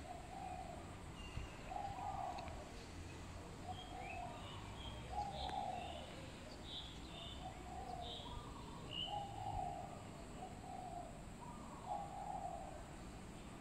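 Birds calling: a short low call repeated about once a second, with higher chirps in between.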